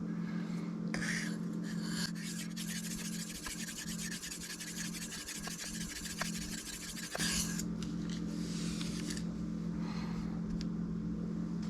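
Steel knife blade being stroked back and forth across a Shapton Kuromaku 1000-grit whetstone, a dry rasping scrape. It comes as a fast run of short strokes for a few seconds in the middle, with slower, separate passes before and after.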